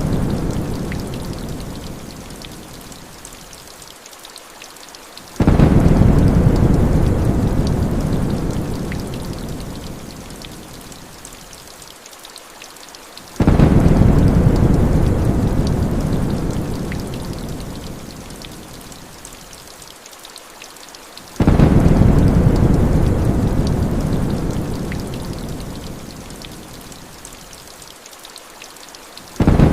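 Heavy rain falling steadily, with a low rumble of thunder that starts suddenly and fades away over several seconds. The rumble comes back at even spacing, about every eight seconds.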